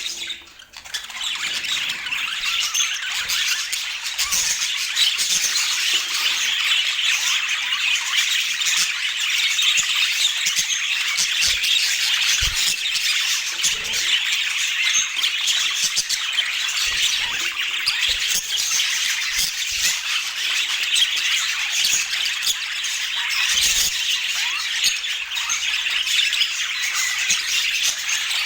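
A flock of budgerigars chattering continuously, a dense mix of chirps, warbles and squawks. The sound drops out briefly just after the start.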